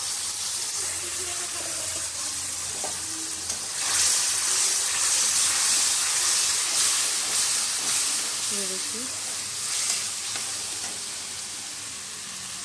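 Ground masala paste sizzling in hot oil in a steel kadhai while a steel spatula stirs it, the masala being fried (bhuna). The sizzle grows louder about four seconds in and eases off near the end.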